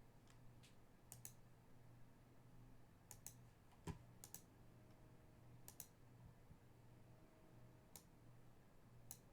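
Faint, scattered clicks of a computer keyboard and mouse, singly and in small clusters a second or more apart, over a quiet low hum.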